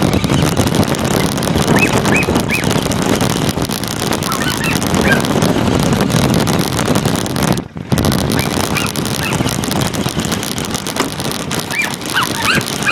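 Steady rumbling and buffeting noise picked up by an iPod microphone taped to a moving RC car, with wind on the microphone. The noise drops out briefly about eight seconds in, and short high chirps come and go throughout.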